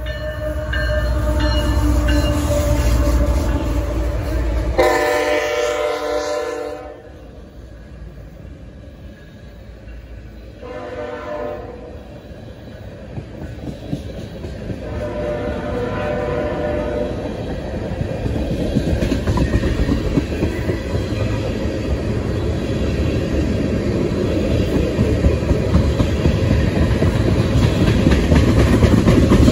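Railroad locomotive with a heavy rumble, then three horn blasts, the second shorter than the others. After that the rumble and rattle of the train grow steadily louder as it approaches.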